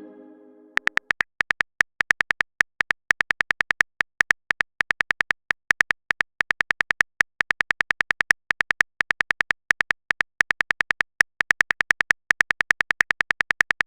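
Rapid typing clicks from a keyboard sound effect, tapping in quick bursts of several clicks with short pauses between them.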